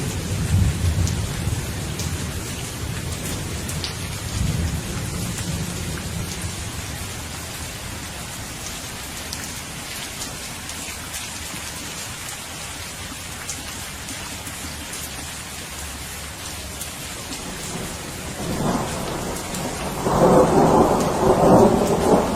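Steady rain falling, with a low rumble of thunder dying away over the first few seconds. A louder roll of thunder builds about three-quarters of the way in and is strongest near the end.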